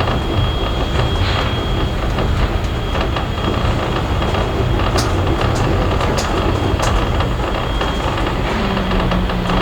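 Steady rumble of a heritage passenger carriage rolling on the rails behind steam locomotive 5917, with a few sharp clicks about halfway through. A thin, high steady whine runs under it and fades near the end, when a low steady hum comes in.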